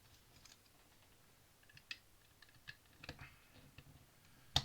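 Plastic Lego pieces clicking and tapping as they are handled and pressed together: a scatter of light clicks, with one sharper, louder snap near the end.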